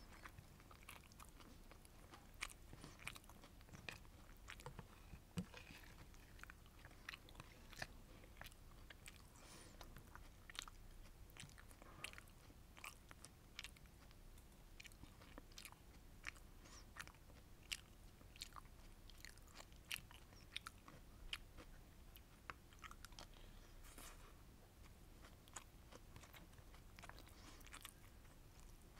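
Quiet, close-miked chewing of sweet and sour fish with rice. Many small, sharp, wet mouth clicks are scattered irregularly throughout.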